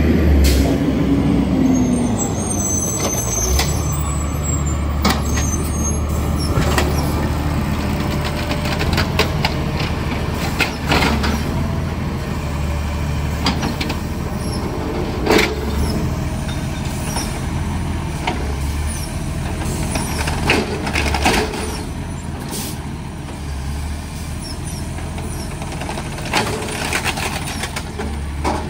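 Garbage truck's engine running steadily, with many sharp clanks and knocks over it.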